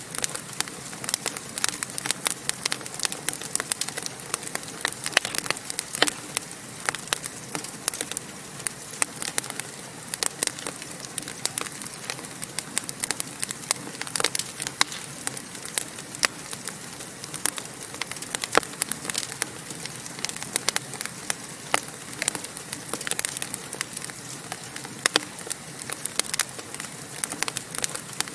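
Wood fire crackling in a fireplace: a steady hiss with dense, irregular pops and snaps.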